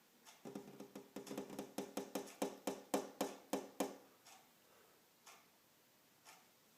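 Woodpecker pecking on window glass: a run of rapid taps, about five a second and growing louder, for roughly three and a half seconds, then single taps about a second apart.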